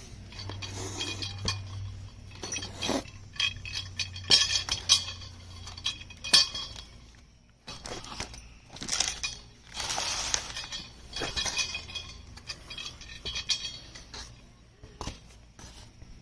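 Small steel nuts and bolts clinking and knocking against the aluminum parts of a chainsaw mill during assembly: a string of irregular, bright metallic clinks and rattles.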